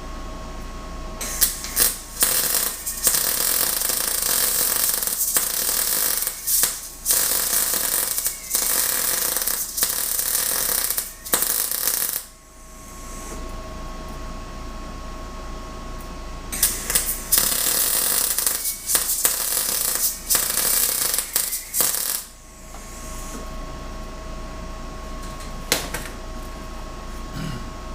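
Welding arc crackling and sizzling through two long weld beads, each several seconds long, on the bushing ends of a 4-link suspension bar. Between the beads the welding machine's steady hum is heard.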